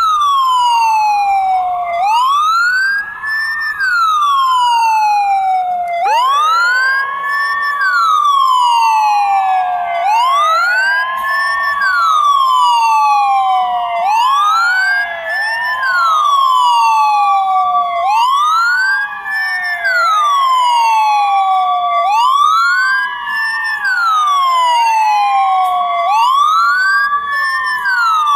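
Ambulance siren wailing, its pitch rising quickly and falling slowly about every four seconds, with a second siren tone layered over it that climbs to a held note before dropping.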